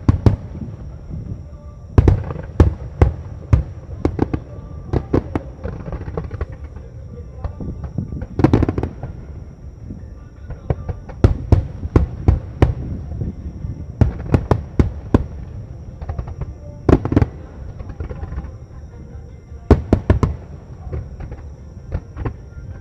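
Starmine fireworks: aerial shells bursting in rapid, irregular clusters of sharp booms over a continuous low rumble, with the densest volleys about two, nine, seventeen and twenty seconds in.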